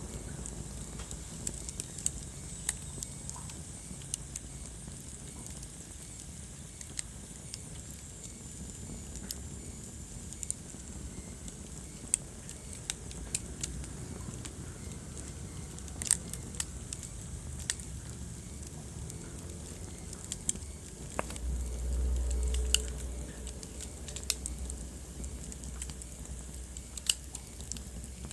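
Wood fire burning in a fireplace, crackling with scattered sharp pops over a steady low rustle of flames. About three-quarters of the way through, a deeper low rumble swells for a second or two.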